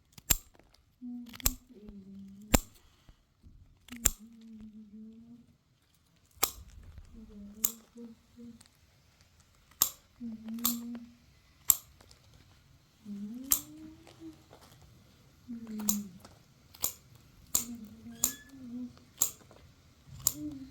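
Sugar loaf being cracked into lumps with sugar nippers: sharp, short cracks at irregular intervals, about one a second. A low voice hums or murmurs between the cracks.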